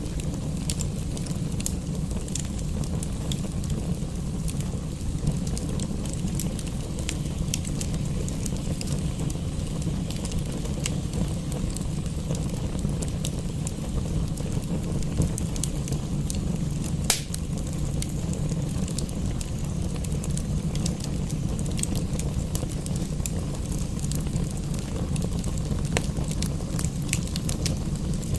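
Wood fire crackling with scattered pops, one sharper pop a little past the middle, over a steady low rumble.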